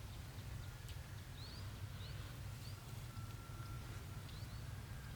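A small bird chirping repeatedly in short, high, rising notes, over a steady low rumble.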